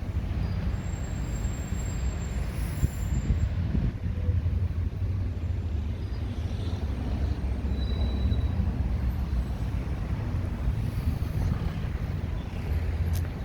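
Steady low rumble of road traffic, with vehicles running along a busy avenue.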